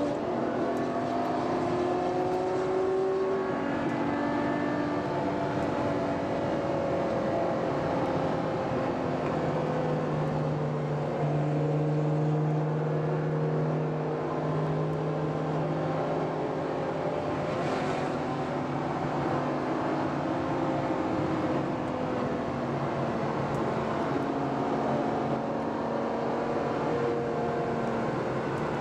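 Ferrari FF's V12 engine running under way, heard on board, its note drifting gently up and down with the throttle and gear changes and no hard revving.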